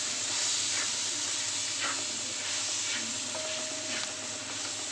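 Cooked beef and roasted masala sizzling in a wide metal pot while being stirred briskly: a steady frying hiss with faint scrapes of the stirring about once a second.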